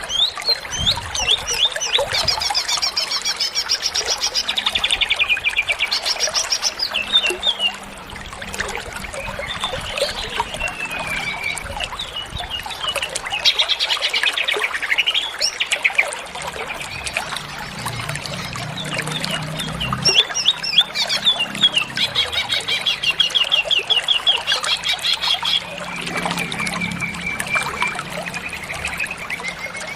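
Cucak ijo (green leafbird) singing a long, varied song of rapid high trills and chattering phrases, one after another without a pause, full of phrases mimicked from other birds.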